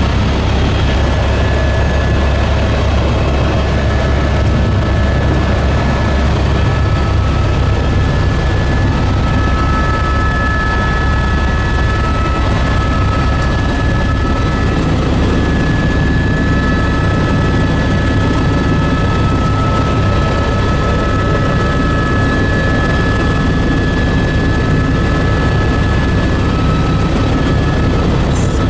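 Helicopter in flight: a steady low rotor drone with a constant high turbine whine over it.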